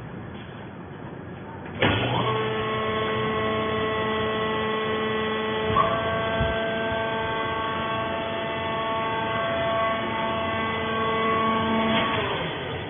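Hydraulic fiber baler's motor and pump starting with a clunk, then running with a steady whine for about ten seconds before winding down near the end.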